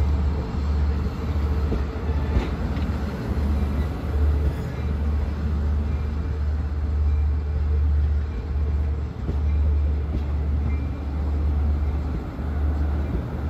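Long Island Rail Road diesel-hauled train of bi-level coaches passing at close range: a steady low drone with running rail and wheel noise above it.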